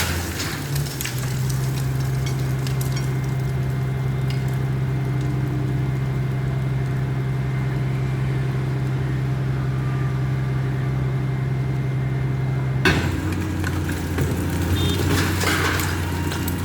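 Heavy demolition machine's engine running at a steady pitch. About thirteen seconds in, the sound changes suddenly to a lower engine note with scattered knocks.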